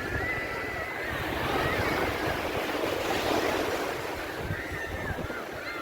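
Sea waves washing onto a beach, a continuous surf wash that swells and eases, with wind buffeting the microphone.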